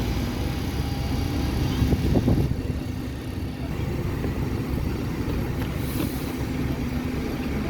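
Steady low rumble of a large vehicle running at a transport interchange, with a steady low hum and a slightly louder moment about two seconds in.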